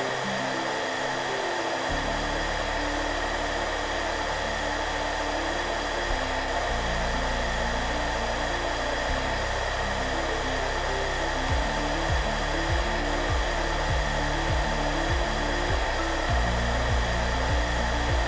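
Hair dryer blowing steadily with an even rushing hiss, over soft background music of sustained low notes that change every few seconds and a pulsing bass figure in the second half.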